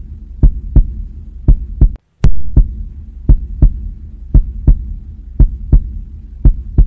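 Heartbeat sound effect, a double beat about once a second, over a low steady drone. About two seconds in, the sound cuts out for a moment and comes back with a sharp click.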